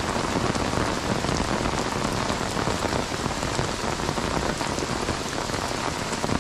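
Heavy rain falling steadily onto a flooded road and grass, a dense even hiss of drops.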